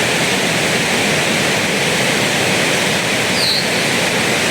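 Steady, even rushing noise, with no speech or distinct events.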